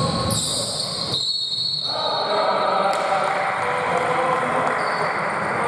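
Basketball bouncing on a gym court, with voices echoing in the large hall.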